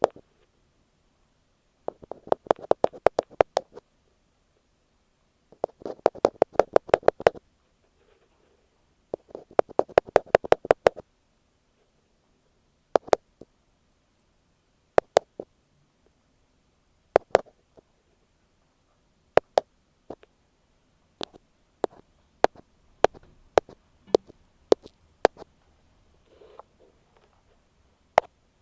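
Ear pick tapping on an earphone microphone, heard as sharp close-up clicks. Rapid runs of taps lasting a second or two come first, then single taps about every two seconds, then a looser scatter of lighter taps near the end.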